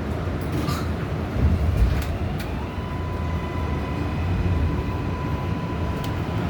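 Inside an R188 subway car: a steady low rumble of wheels on rail, with the motor whine rising in pitch and then holding steady about two and a half seconds in as the train picks up speed, plus a few sharp clacks.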